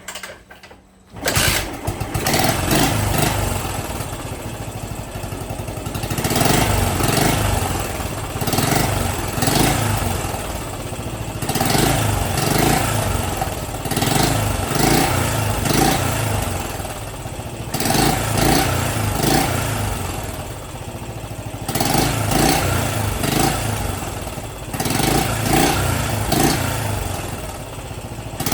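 Yamaha SR400's air-cooled single-cylinder engine kick-started, catching about a second in, then running with the revs rising and falling again and again as the throttle is blipped.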